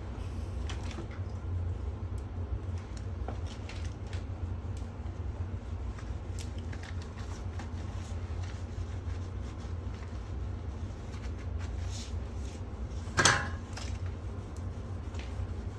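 Scattered light clicks and handling noises from work on a toilet flange, with one sharp, louder knock about 13 seconds in, over a steady low hum.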